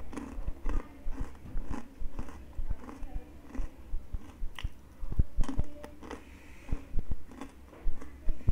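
Close-up crunching and chewing of crispy fried snack chips, a run of irregular sharp crunches.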